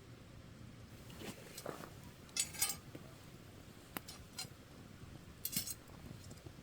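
Wood campfire crackling, with a few sharp pops and short crackly bursts over a faint steady hiss.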